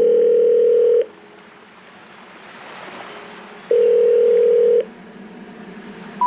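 Two long, steady electronic beeps, each about a second long, with about three seconds of faint hiss between them.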